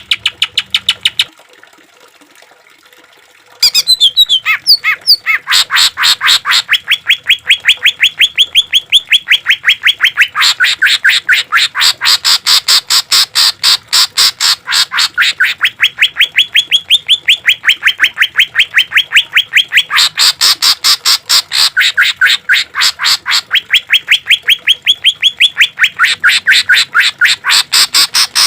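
Green leafbird (cucak ijo) song: rapid strings of repeated notes, about seven a second, in phrases of a few seconds that alternate between a lower and a higher pitch. A pause of about two seconds falls early on.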